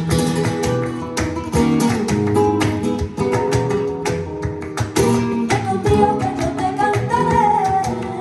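Lively plucked acoustic guitar music in a flamenco-like Latin style, played back through Klipsch RP-500M II bookshelf speakers driven by a Willsenton R300 tube amplifier. A higher, wavering melody line joins a little past halfway.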